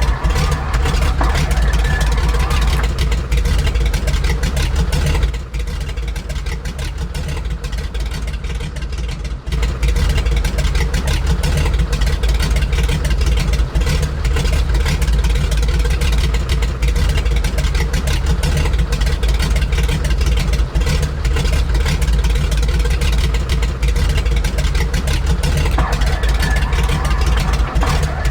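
Grumman Goose's radial engines running steadily, loud with a heavy low rumble, easing off in level for a few seconds from about five seconds in before coming back up.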